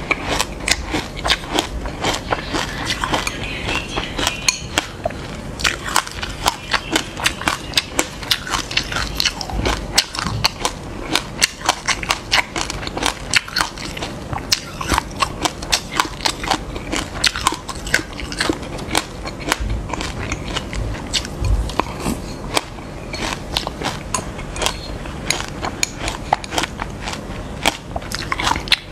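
Close-up chewing of a mouthful of black sesame seeds mixed with passion fruit pulp: dense, rapid crackling crunches, many small clicks each second.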